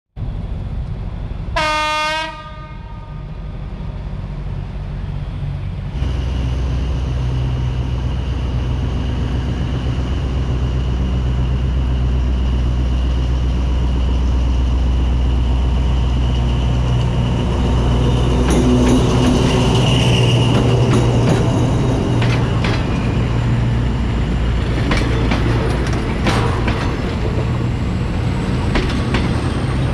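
A diesel-electric locomotive gives one short horn blast about two seconds in. Its engine then rumbles steadily as it approaches and hauls passenger coaches past. In the second half the coach wheels click over the rail joints.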